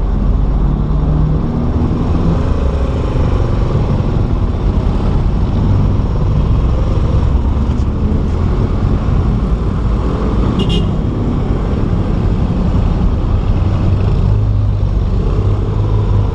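Motorstar Cafe400 400cc motorcycle engine running steadily while riding in traffic, with road and wind noise. A brief high beep sounds about ten seconds in.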